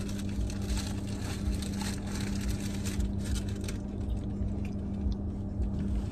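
Close-up eating sounds: chewing and small wet mouth noises of someone eating french fries. Under them runs a steady low hum in the car's cabin.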